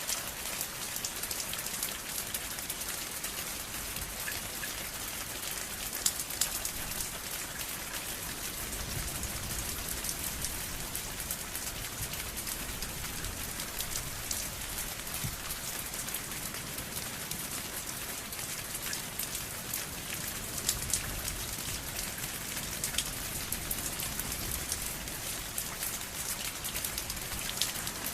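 Steady rain falling, a dense even patter with individual drops ticking louder here and there.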